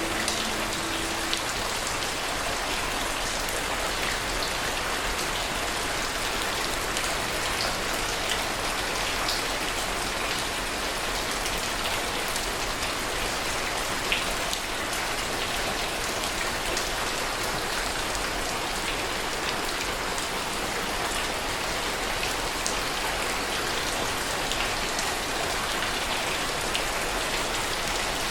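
Steady heavy rain: an even, unbroken hiss with scattered sharper drop ticks, one louder hit about fourteen seconds in.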